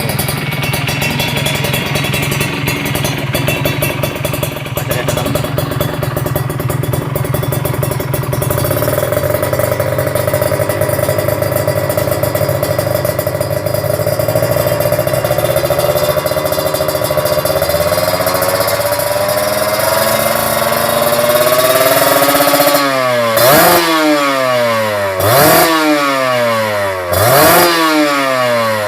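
Kawasaki Ninja 150's two-stroke single-cylinder engine running through a stainless-steel Creampie ZZ1 racing exhaust, its revs held up and slowly climbing, then blipped three times near the end, the pitch dropping and rising again each time.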